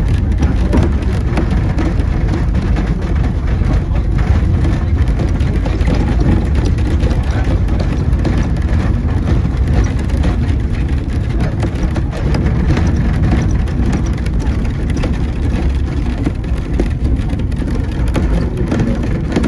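Steady running rumble of a 2 ft gauge narrow-gauge train in motion, heard from on board: wheels running on the rails and the carriage rattling along.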